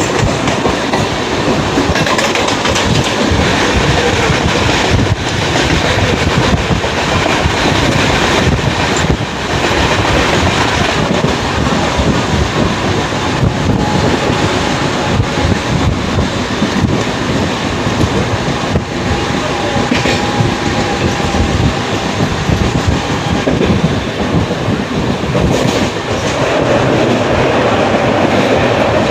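Mumbai suburban slow local train (electric multiple unit) running, its wheels clattering steadily over the rail joints.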